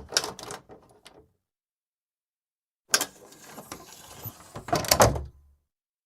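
Wooden bifold door being worked: a few knocks and clicks die away within the first second, then after a silent gap a sharp click, a rattling of the folding panels, and a cluster of loud knocks about five seconds in as the panels come to rest.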